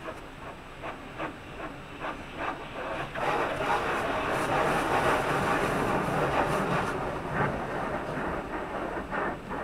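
Automatic car wash working over a car, heard from inside the cabin: water spray hissing on the body with rapid, uneven slapping of the wash equipment against the car. It swells sharply about three seconds in and eases off near the end.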